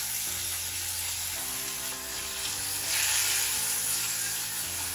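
Marinated chicken pieces and chopped spring onions sizzling steadily in hot oil in a frying pan while a silicone spatula stirs them, the sizzle brightening about three seconds in. Soft background music with held notes plays underneath.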